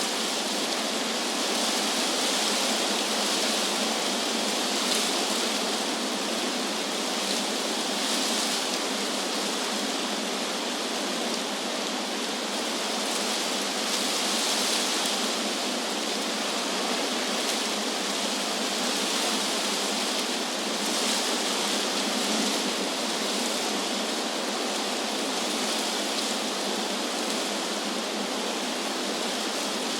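Wind blowing through trees: a steady rustling hiss of leaves that swells and eases gently every few seconds.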